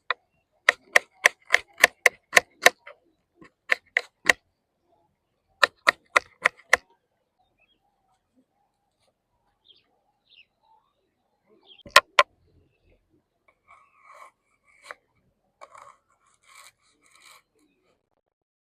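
A knife chopping on a cutting board: sharp knocks in quick runs of about three a second, then two loud knocks near the middle and some faint scraping toward the end.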